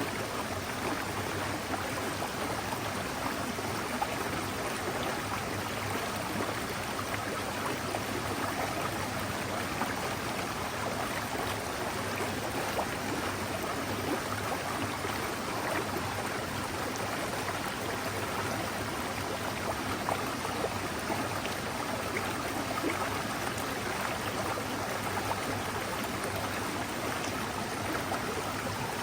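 Mountain stream flowing in a steady, even rush of running water.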